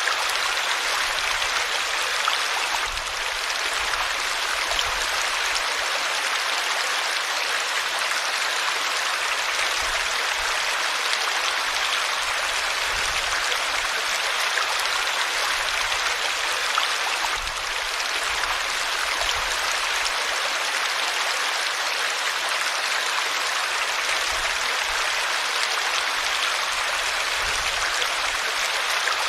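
River water flowing over rocks: a steady, even rushing hiss.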